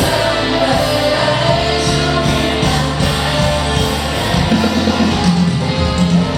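Loud live band music with singing, a rock-pop song played through a concert PA during a sound check.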